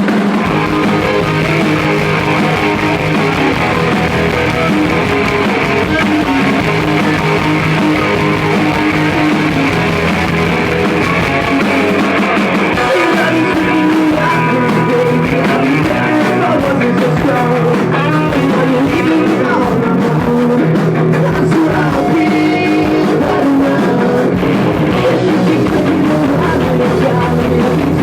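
Rock band playing live, with electric guitars and drums and a singing voice.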